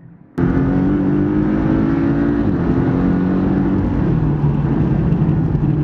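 Porsche 718 Cayman's 2.0-litre turbocharged flat-four engine and exhaust, heard loud from inside the cabin as the car is driven. It cuts in abruptly about half a second in and runs steadily, its pitch shifting a couple of times.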